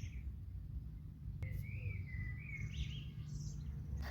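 Small birds chirping, a run of short calls in the middle, over a steady low rumble of outdoor noise, with one faint click.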